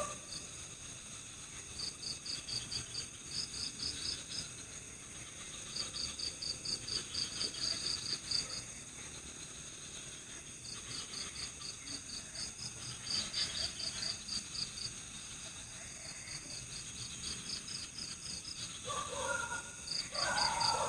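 Night chorus of crickets: trains of rapid, high-pitched chirps a few seconds long, starting and stopping, over a steady high insect drone. A lower call breaks in near the end.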